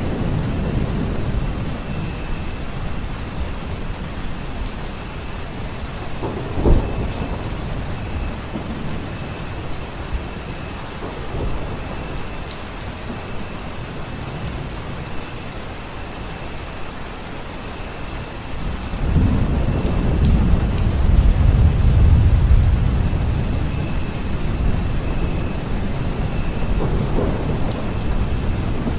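Steady rain with thunder: a sharp crack about a quarter of the way in, then a long low rumble past the middle and a smaller one near the end.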